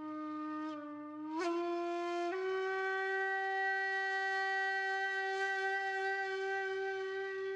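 A wind instrument in background music plays long held notes. It steps up in pitch twice in the first couple of seconds, then holds one steady note.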